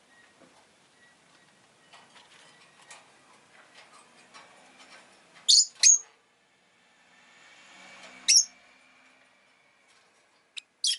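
Rosy-faced lovebird giving short, sharp, high-pitched chirps: two about halfway through, another a few seconds later, and two quick ones near the end, over faint ticking and clicking.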